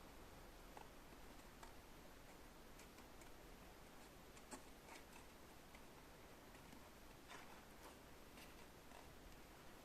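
Near silence: faint room hiss with a few soft, irregularly spaced clicks.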